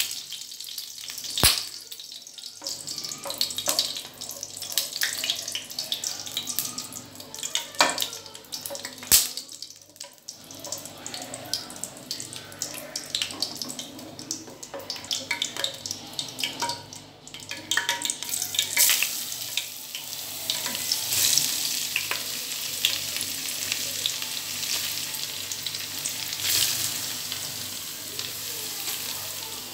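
Food sizzling and crackling as it fries in hot fat in a deep metal pot, stirred with a wooden spatula that scrapes and knocks against the pan, with two sharp knocks early on. The sizzle grows louder and steadier from a little past halfway.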